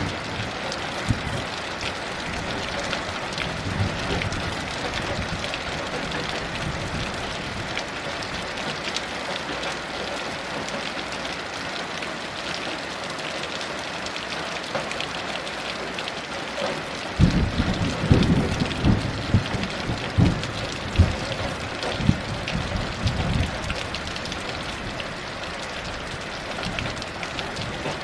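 Heavy rain falling steadily. About seventeen seconds in, thunder rolls in a low rumble with several sharp cracks for some seven seconds, then dies back to the rain alone.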